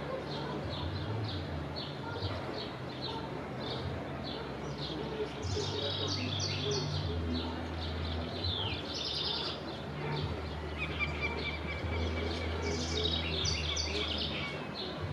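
Birds chirping, short high notes repeating about twice a second, with busier bursts of song twice, over a low steady hum.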